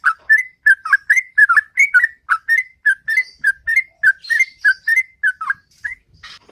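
Sooty-headed bulbul (trucukan) singing its ropel, a long run of short, fluty whistled notes at about three a second, which stops shortly before the end.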